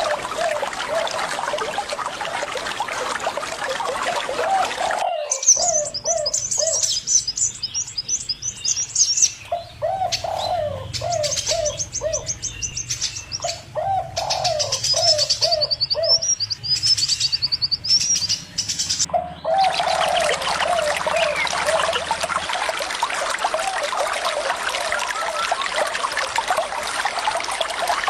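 Birds calling over running water: groups of short, low, repeated notes recur throughout, and high, rapid chirps sound in the middle stretch. The water is loudest at the start and again in the last third, and the sound changes abruptly twice, as at edit cuts.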